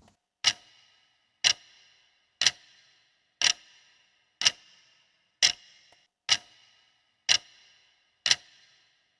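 Countdown timer's clock-tick sound effect, marking the seconds of answer time: sharp ticks about one a second, nine in all, each with a short ringing tail.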